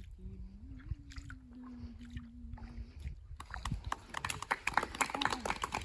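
An unaccompanied voice sings a long, held note on the last line of a Kannada song, with a small lift in pitch about a second in, fading out at about three seconds. After that comes a dense patter of short clicks and knocks that grows louder.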